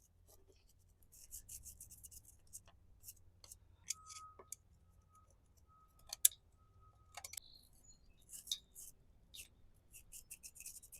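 Hand wire brush scrubbing out the thermostat housing of a Yamaha F150 outboard in short, scratchy bursts of strokes, with a few sharp metallic clicks, the loudest about six seconds in.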